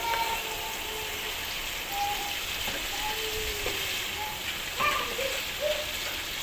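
Chicken frying in a pan: a steady sizzle.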